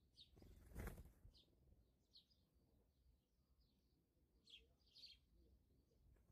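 Faint, short bird chirps, each falling quickly in pitch, repeating irregularly. A brief rustle or knock comes about a second in.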